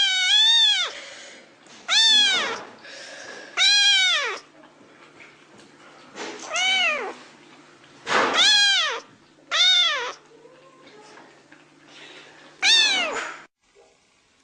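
Domestic cat meowing loudly over and over: about eight drawn-out meows, each rising and then falling in pitch, a second or more apart, stopping shortly before the end.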